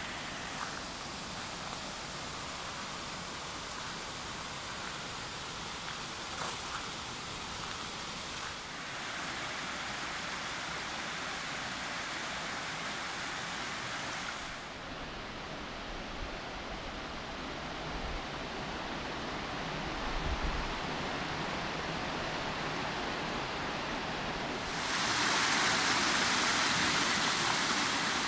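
Steady rushing of a waterfall on a rocky stream. Its tone changes twice: duller about halfway through, then louder and brighter for the last few seconds.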